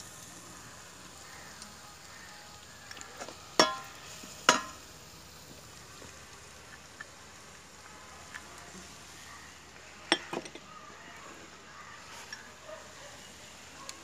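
Chicken biryani ingredients frying with a steady sizzle as they are stirred, a metal spoon clanking against the pot twice about three and a half seconds in and twice more around ten seconds in.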